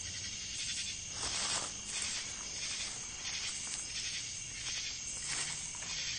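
Steady high-pitched trill of crickets at night, with a few soft, short puffs of noise over it.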